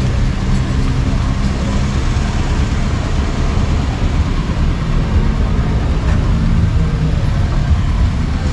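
A motor vehicle engine running steadily, a continuous low hum.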